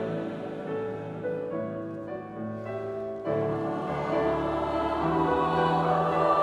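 Choir singing held chords, thinning and softening about two to three seconds in, then swelling fuller again.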